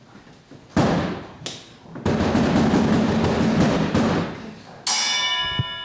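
Live stage percussion: two loud drum strikes, then a drum roll of about two seconds. About five seconds in, a struck metal instrument rings out with a shimmering sustained tone that slowly fades.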